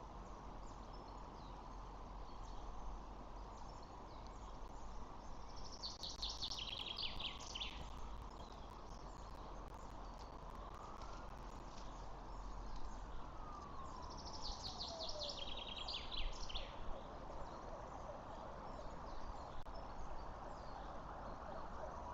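Outdoor background noise with two bursts of rapid, high-pitched bird chirping, one about six seconds in and one about fifteen seconds in. A faint tone rises and then falls in the middle.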